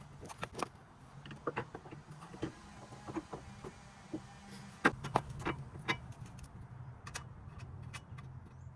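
Scattered metallic clicks and knocks of tools and suspension parts being handled during a coilover fitting, the sharpest about five seconds in, over a faint steady low hum.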